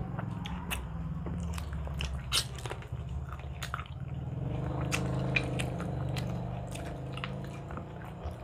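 Close-miked eating: people chewing grilled pork barbecue and rice, with many short wet smacks and clicks of lips and mouths, over a steady low hum.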